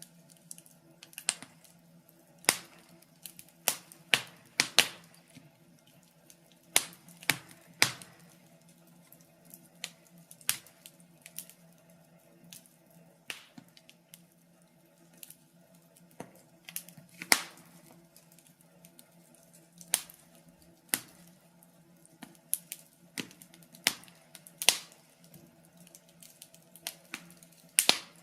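Wood fire burning in a fireplace, crackling with irregular sharp pops, some close together and some a second or two apart, over a faint steady low hum.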